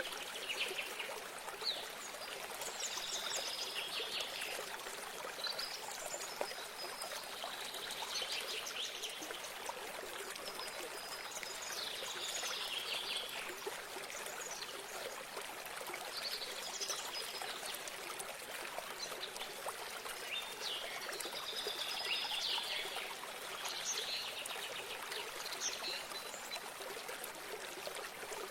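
Running water trickling and pouring steadily, with a songbird singing short repeated phrases a few seconds apart over it.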